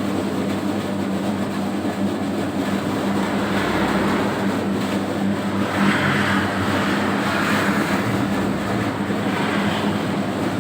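Homemade electric dough mixer running steadily, its motor giving a constant hum with a strong low tone. A rougher churning noise swells and fades in the middle.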